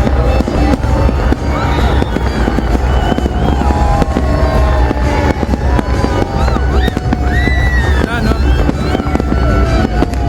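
Dense, continuous fireworks: a steady barrage of booms and crackling bursts with no pause, with many whistling tones sliding up and down in pitch over it.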